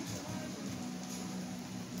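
Steady rain hiss, with a faint low humming tone underneath.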